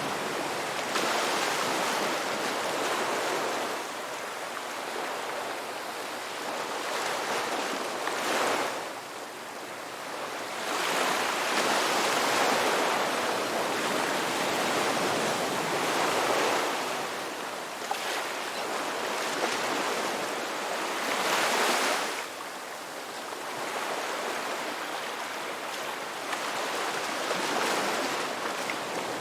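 Ocean surf washing on a beach, waves swelling and breaking about five times with a steady hiss of water between them.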